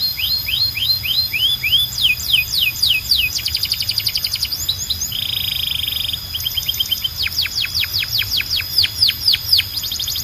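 Domestic canary singing a continuous song of rapid repeated phrases, each a string of quick sweeping whistled notes, with a short buzzy trill about halfway through.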